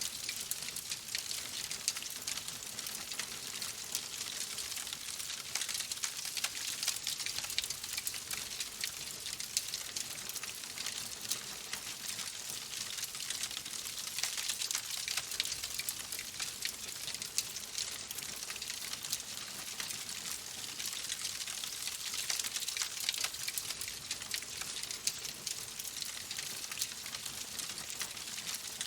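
Steady rain: a constant hiss thick with tiny drop ticks.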